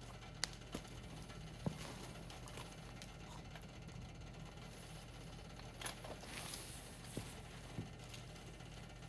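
Wood fire crackling: scattered sharp pops and snaps from burning firewood, about six in all, with a short hiss about two-thirds of the way through, over a low steady background.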